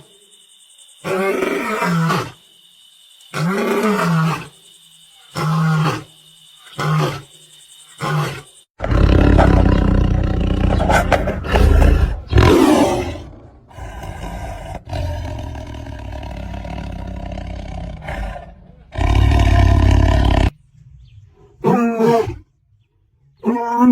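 Lion and tiger roaring: first a run of roars that grow shorter one after another, then a long, loud stretch of roaring with a heavy low rumble, and two short calls near the end.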